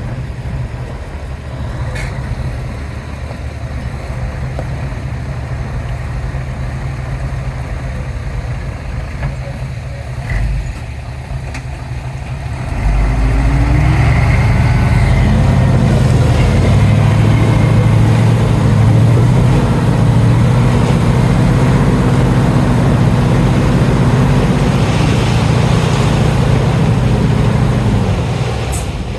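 Heavy diesel engine of earthmoving machinery running steadily, then revving up about 13 seconds in and running hard and loud, as under load.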